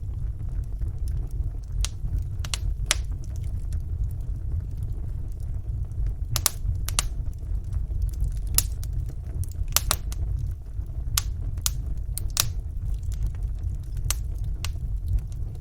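Wood fire burning in a fireplace: a steady low rumble of the flames with irregular sharp crackles and pops, several of them close together in the middle.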